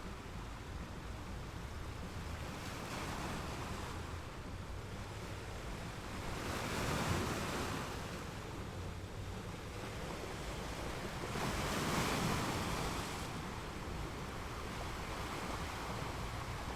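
Sea waves washing onto the shore in a steady rush, with two louder breakers swelling and falling away about seven and twelve seconds in.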